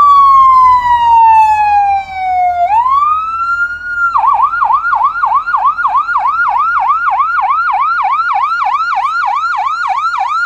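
Electronic siren of a Ford F700 fire engine: a long falling wail, a rise, then from about four seconds in a fast yelp cycling about three times a second.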